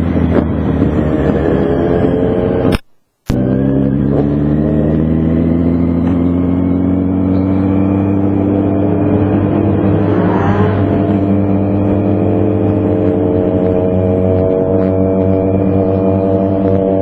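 Motorcycle engine running under way, its pitch climbing slowly and steadily as it gathers speed. The sound cuts out for a moment about three seconds in.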